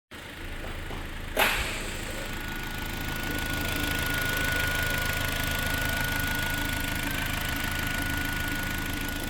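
Hyundai ix35's 2.4-litre four-cylinder petrol engine running at idle. There is a single sharp knock about a second and a half in, and a steady high-pitched whine from about two seconds on.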